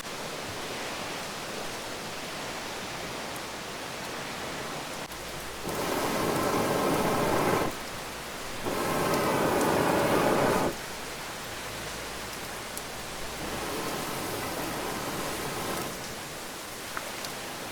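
A steady, even hiss. A louder rushing noise comes in twice for about two seconds each, starting and stopping abruptly, near the middle.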